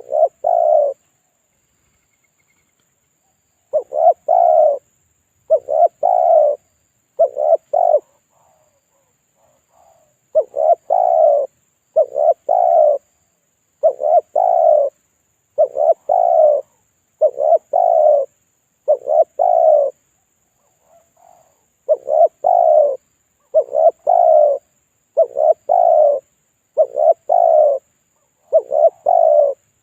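Spotted dove (tekukur) cooing a lure call. Short phrases of two or three coo notes repeat about every two seconds, with a few brief pauses.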